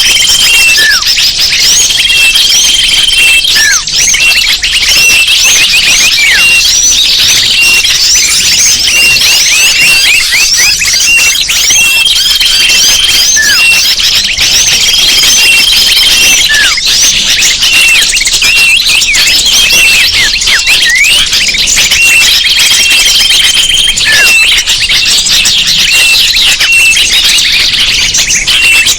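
Bird-lure recording: a loud, dense chorus of many small birds chirping and twittering without a break, with repeated short steady whistled notes and quick downward-sweeping calls.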